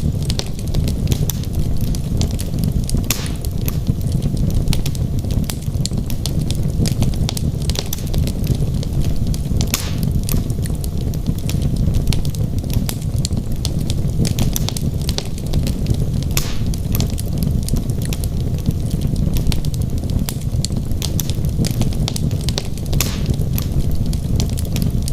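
Logs burning in a wood fireplace: a steady low rumble with frequent sharp crackles and pops, a few of them louder than the rest.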